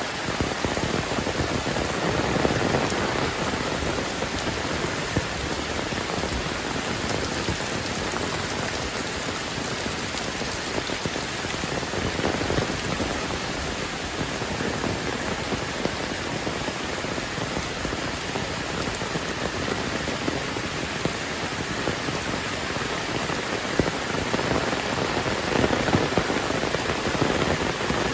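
Heavy rain falling steadily as a dense hiss, swelling slightly about two seconds in and again near the end.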